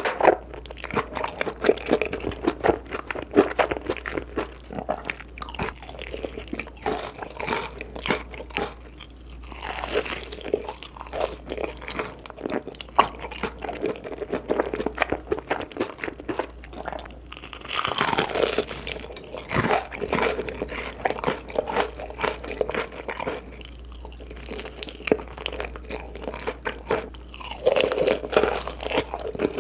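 Close-miked eating sounds: a person biting and chewing food, with frequent irregular crunches and wet mouth clicks. A louder stretch of crunching comes about two-thirds of the way in.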